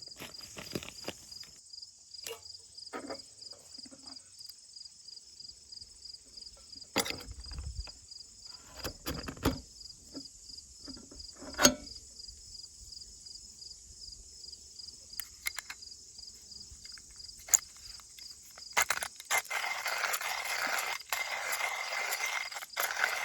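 Insects chirping steadily in the background, a high pulsing trill, with scattered clicks and knocks. About three-quarters of the way in, a steady rough rasping noise starts.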